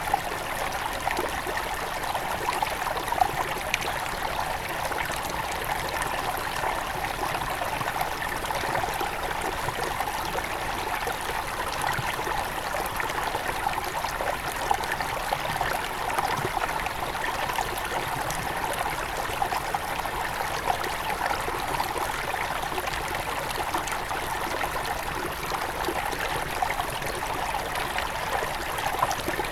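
A small forest river near its source, flowing in a steady rush of water with small splashes and trickles throughout.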